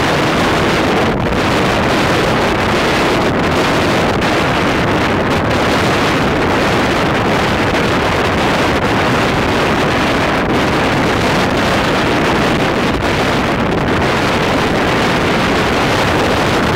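Strong typhoon wind buffeting the microphone over the steady roar of heavy surf breaking on the shore.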